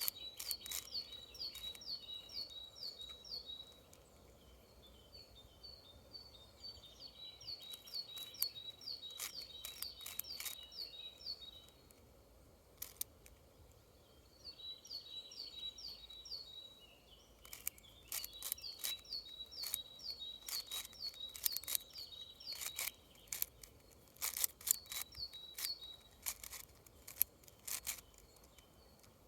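Plastic clicks and clacks of a 6x6 cube puzzle being turned, coming in irregular flurries, with a bird singing the same phrase of short, high chirps again and again, a few seconds at a time.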